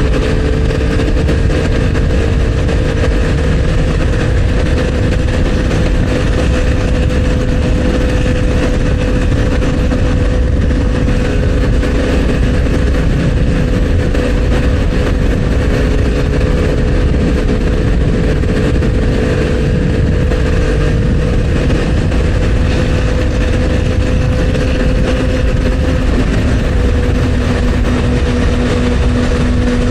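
Motorcycle engine of over 800cc running steadily at cruising speed, its pitch holding nearly level with small rises and dips, under heavy wind and road rumble.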